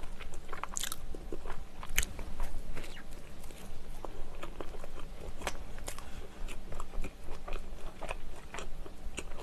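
Close-miked chewing of a sausage onion bread roll: soft wet mouth clicks and small crunches, with one sharper bite about two seconds in.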